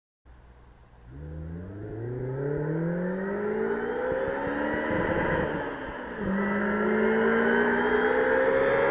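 Mazda RX-8's swapped-in supercharged Honda K20 four-cylinder engine accelerating hard: the revs climb steadily, drop at a gear change about five to six seconds in, then climb again in the next gear.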